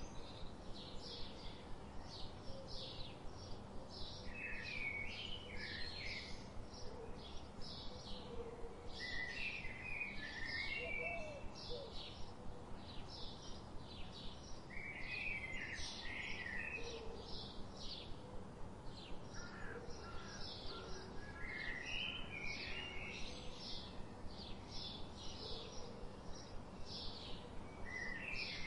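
Birds chirping: a steady run of short high chirps, about three a second, with a burst of lower twittering every few seconds.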